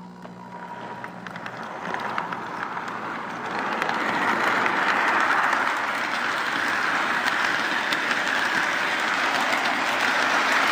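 O gauge model train running along its track, heard from a car of the train: a steady rolling rush with fine clicks that builds over the first four seconds, then holds.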